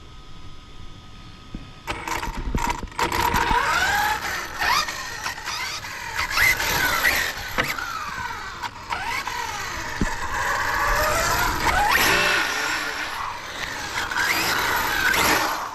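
HPI WR8 radio-controlled rally car driving hard, its motor pitch rising and falling again and again as it accelerates and lets off, with scattered clicks and rattles.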